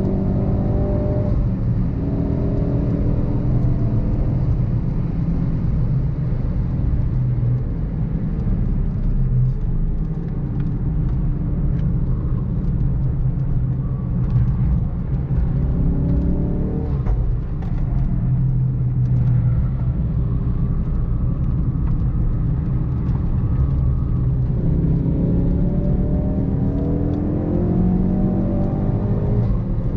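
Ford Focus RS Mk3's 2.3-litre turbocharged four-cylinder engine being driven hard on track, its revs climbing and dropping several times over a steady low rumble of road noise.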